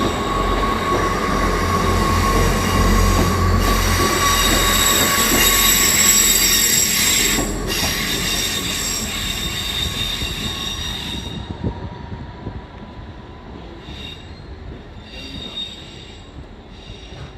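A train running through on the rails with a steady high-pitched wheel squeal over a low rumble. The rumble drops away after about four seconds, and the squeal fades out after about eleven seconds as the train moves off.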